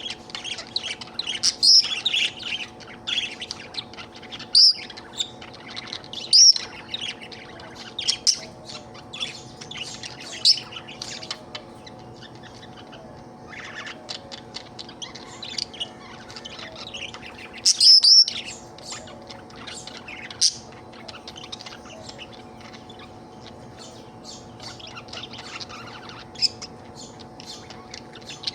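Budgerigar chattering: continuous rapid chirps and warbles with sharper, louder chirps every couple of seconds, quieting somewhat in the last third. A faint steady hum runs underneath.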